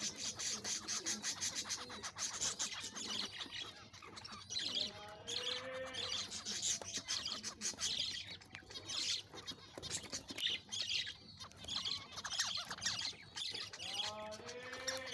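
A small flock of zebra finches calling and chirping without pause, a dense chatter of short, high calls.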